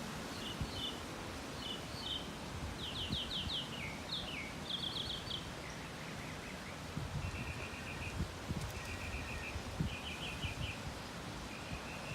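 Gusty wind buffeting the microphone with an uneven low rumble and thumps, rustling through trees. Over it a songbird sings a string of short trilled phrases, each repeated a few times before switching to a new one, the later phrases lower in pitch.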